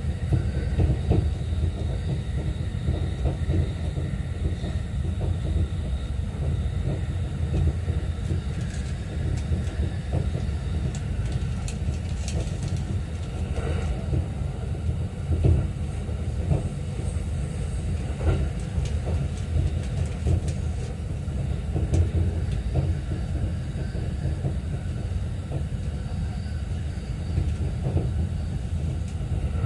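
Running noise of a JR East E231-series train at speed, heard from the lower-deck seats of a bilevel Green car: a steady low rumble of wheels on rail with scattered light clicks and knocks.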